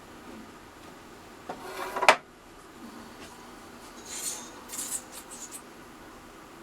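Small clamps and thin plywood parts handled on a workbench during a glue-up: a short scraping slide ending in a sharp knock about two seconds in, then a few light clicks and rattles.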